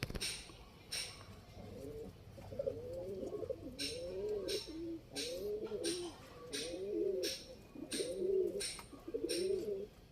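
Domestic pigeons cooing, a run of low warbling coos about once a second starting a couple of seconds in, with sharp clicks heard alongside.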